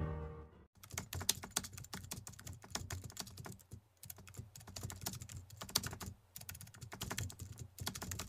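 Computer keyboard typing: a fast, irregular run of key clicks with a couple of short pauses. It begins about a second in, after the end of a music cue dies away, and stops abruptly.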